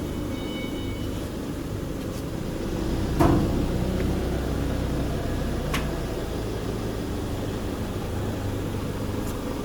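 Steady low machinery hum, with one sharp knock about three seconds in and a lighter click near six seconds.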